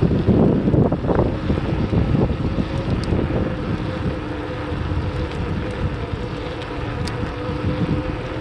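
Wind buffeting the microphone during a bicycle ride, a steady low rumble, with a faint steady hum joining in about three seconds in.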